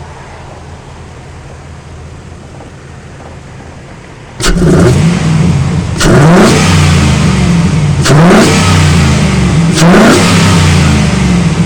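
Chevy Avalanche 5.3-litre V8, fitted with a K&N cold air intake and a Flowmaster 50 Series dual exhaust, idling and then revved. About four seconds in it is blipped hard, four times about every two seconds, each rev rising quickly and falling back.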